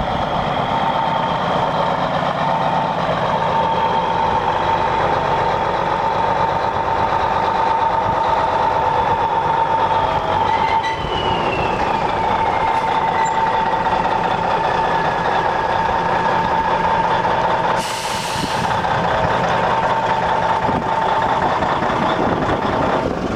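Diesel engine of a 1994 International 9400 truck tractor running steadily with a constant whine. A higher whine slides down in pitch about halfway through. A short hiss of air comes near the end.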